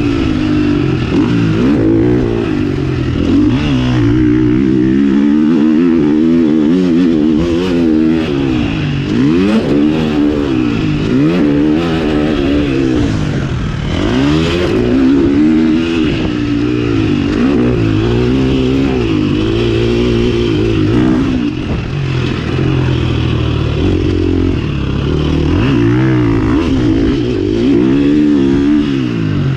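KTM 350 SX-F motocross bike's single-cylinder four-stroke engine, revving up and dropping back over and over as the throttle is opened and shut, with about a dozen rising and falling sweeps in pitch.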